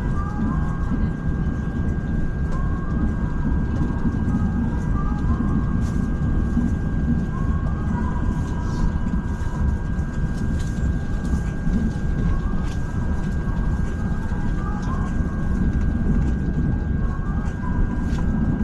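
Steady running noise of an ETS electric train from inside the passenger cabin: a constant low rumble from the wheels on the track, with a thin, unchanging high-pitched whine above it.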